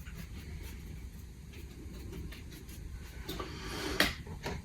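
Soft scratching and dabbing of a fluffy paintbrush working paint over model rock faces, with light brush ticks. The strokes grow busier near the end, with one sharper stroke about four seconds in.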